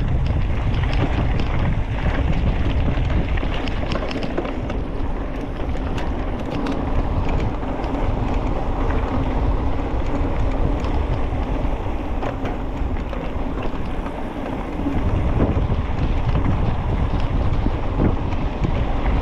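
Wind buffeting the microphone of a moving bike rider: a steady rushing rumble, heaviest in the low end, with scattered crackles. It eases briefly about fourteen seconds in, then picks up again.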